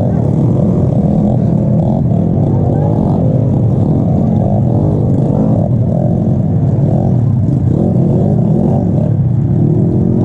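Motorcycle engine running, its revs rising and falling.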